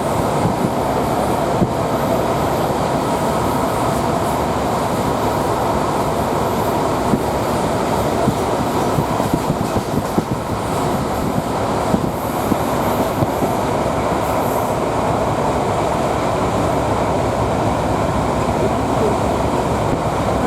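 D1 diesel multiple unit heard from inside while running along the line: a steady rumble with the wheels clattering over the rail joints, with a run of sharper clicks in the middle.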